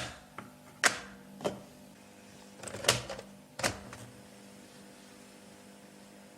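Five sharp clicks or knocks at uneven intervals over a faint steady hum, the last about two-thirds of the way in.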